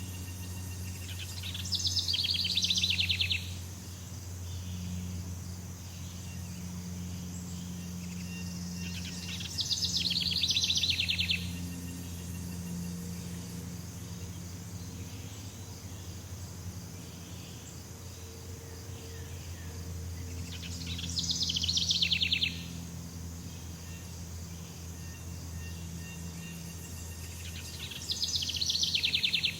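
Jungle ambience: a rapid rattling animal call rises out of a steady low hum and hiss four times, each call lasting about a second and a half and coming roughly every eight to nine seconds.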